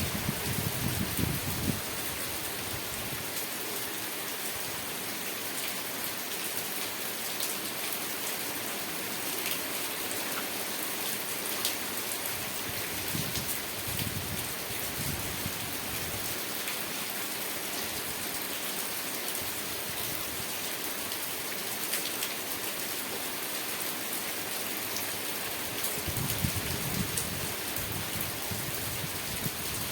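Steady rain falling: a dense, even hiss with scattered sharper drop ticks. A soft low rumble swells briefly near the start, again about halfway through, and once more near the end.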